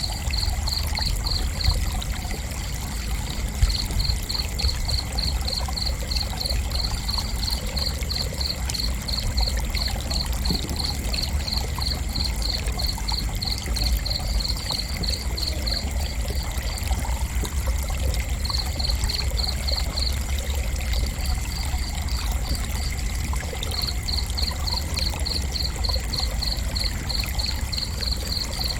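A cricket chirping in an even series of short high chirps, about four a second, breaking off briefly a few times before resuming, over a steady low rumble and faint steady high tones.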